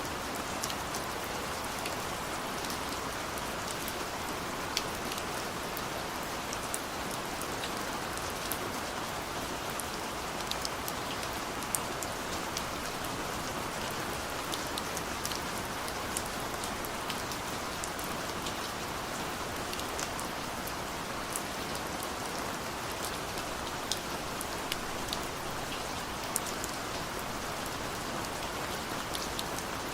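Steady rain: a constant even hiss with many separate drops striking sharply through it.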